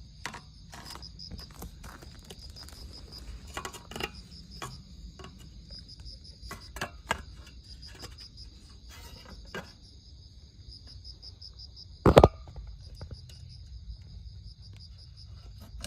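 Insects chirping in a steady, high, evenly pulsing trill, with scattered small clicks and one sharp knock about twelve seconds in that is the loudest sound.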